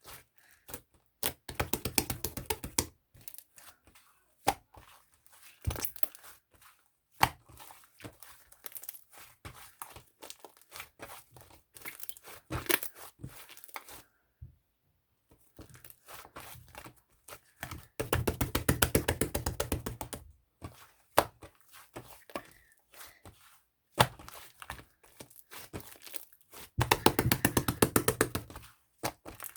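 Close, rapid crackling and crinkling handling noise in several bursts of a second or two each, with single knocks and taps in between.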